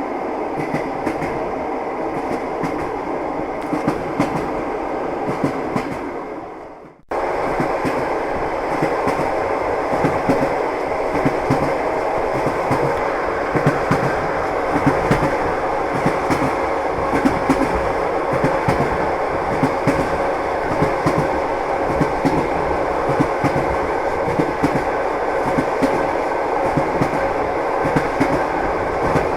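Train running on rails, a steady rumble with the wheels clacking over rail joints. About six seconds in, the sound fades briefly and then cuts back in suddenly, like a splice in the recording.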